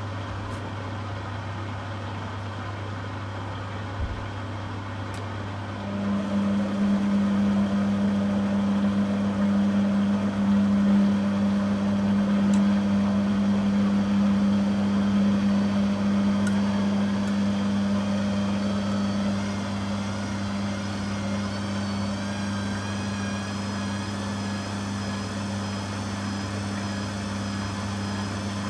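Beko WTG620M1 washing machine running, with a steady low hum. About six seconds in, a louder steady hum sets in, and later a faint high whine slowly rises in pitch.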